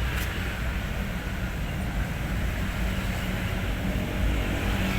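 Hino 500 truck's diesel engine running with a steady low rumble.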